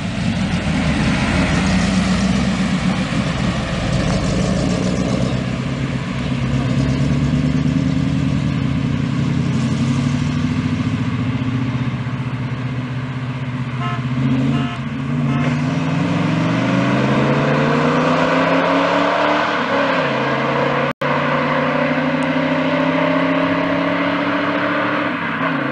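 Chevrolet Corvette V8 engines revving, then accelerating hard: the pitch climbs steeply for several seconds, drops back at a gear change, and holds high as the cars pull away. There is a brief cut-out in the sound near the end.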